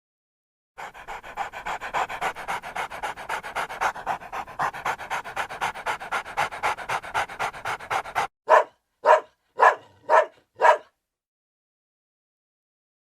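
A dog panting fast and evenly for about seven seconds, starting about a second in, then barking five times in quick succession, about half a second apart.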